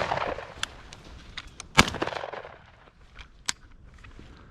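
A shotgun shot about two seconds in, its report trailing off, with the tail of another shot fading at the start. Faint clicks and rustles in between.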